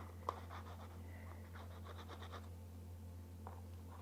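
Faint scratching and tapping of a paint-loaded hawthorn branch being pressed and dabbed onto paper, with one sharper click early and a run of soft strokes in the first half, over a steady low electrical hum.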